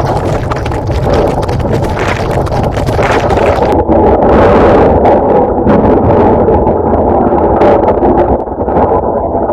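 Loud, continuous rumbling and rattling noise recorded during an earthquake. It swells about four seconds in and eases a little near the end.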